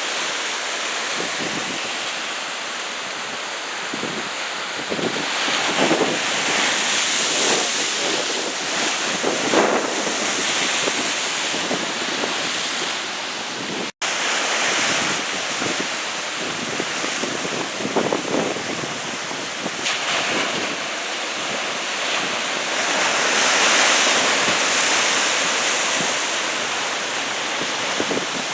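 Heavy typhoon-swell surf breaking and washing in, in swells that grow louder and ease off, with wind buffeting the microphone. The sound drops out for an instant about halfway through.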